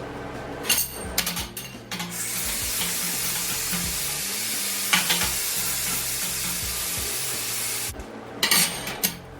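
Electric welding arc crackling and sizzling steadily for about six seconds while metal is welded. Sharp metal clanks come before it and again near the end.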